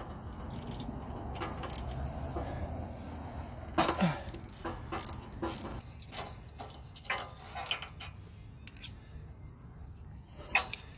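Hand tools and metal parts being handled while working on a snowblower engine: a few seconds of scraping and rustling, then scattered sharp metallic clicks and clinks, the loudest about four seconds in and near the end.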